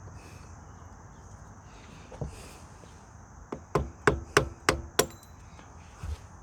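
Sharp metal-on-metal taps of a tool working the keeper clip off the master link of an ATV drive chain: one knock about two seconds in, then a quick run of about six taps, and one more near the end.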